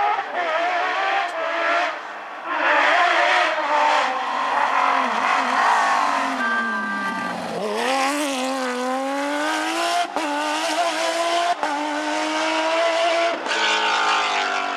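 Porsche rally car engine revving hard on a stage. Its note falls as it slows about halfway through, then climbs again as it accelerates, with several quick gear changes.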